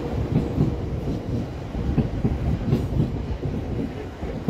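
South Western Railway passenger train passing close by, its wheels clattering over the rail joints in an uneven run of low thumps over a steady rumble.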